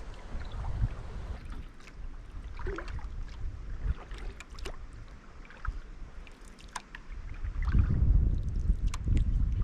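Kayak paddle strokes on a lake: small splashes and water dripping off the blades, with a low rumble growing louder in the last couple of seconds.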